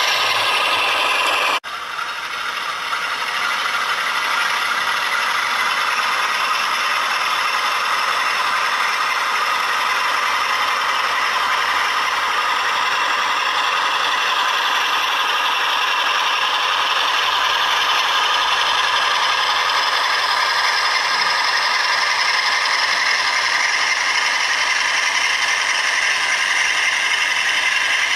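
Model Class 47 diesel locomotive running with a TTS sound decoder: steady diesel engine sound from its small speaker mixed with the rattle of the model's motor, gears and wheels. The sound breaks off briefly about a second and a half in, then builds back up over a couple of seconds.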